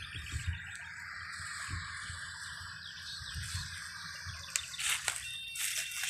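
Birds chirping over a steady high outdoor hiss, with low bumps on the microphone early on and a few sharp clicks about five seconds in.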